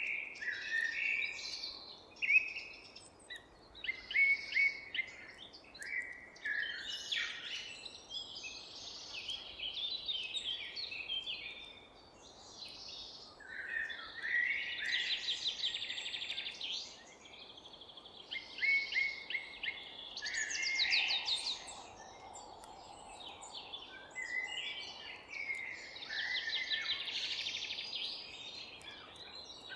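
Several songbirds singing and chirping at once, overlapping phrases with fast trills, over a faint steady background hiss.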